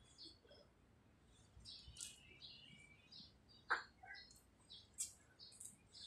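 Faint, scattered high chirps of small birds. A single sharp tap sounds a little past halfway, with a smaller one about a second later.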